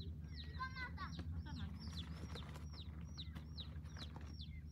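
A bird chirping over and over, short falling chirps at an even pace of about three a second, with a brief lower call just under a second in. A low steady hum runs underneath.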